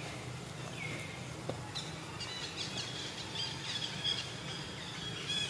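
Birds chirping in quick runs of short high notes from about two seconds in, with a single gliding call just before, over a steady low background hum.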